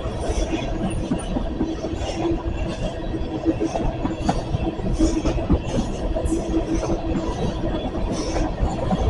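Cars of a long freight train rolling past: a steady rumble of steel wheels on the rails, with scattered clicks and a faint steady whine.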